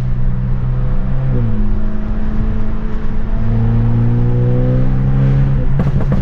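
Straight-piped, Stage 2+ tuned BMW F30 328i's turbocharged four-cylinder exhaust: a steady drone that drops in pitch at a gear change about a second and a half in, then rises slowly as the car pulls. A few sharp cracks come near the end.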